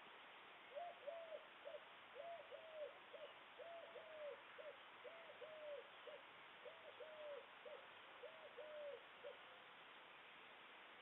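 A bird's faint, low cooing: a three-note phrase, two longer notes and a short one, repeated six times about every second and a half.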